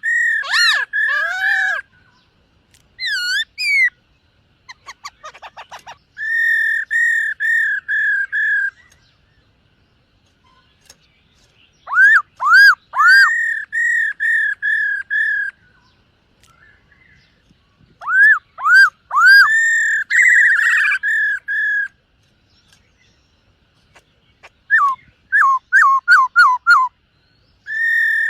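Black-throated laughingthrush singing: loud, clear whistled phrases of rapidly repeated swooping notes, delivered in bouts of a few seconds with short pauses between them.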